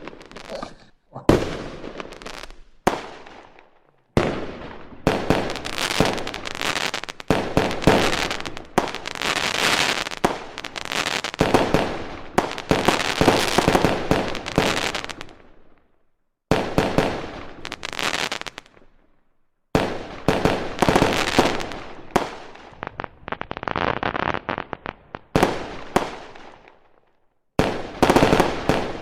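Fireworks going off: dense crackling and sharp bangs in several long runs, cutting out suddenly a few times between runs.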